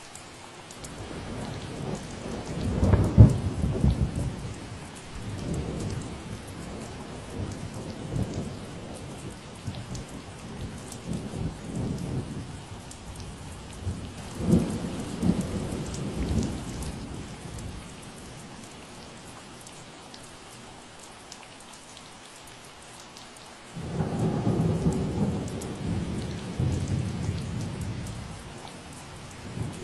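Steady rain falling, with low rumbles of thunder swelling about three seconds in and again around fifteen seconds, and a longer rumble starting suddenly about twenty-four seconds in.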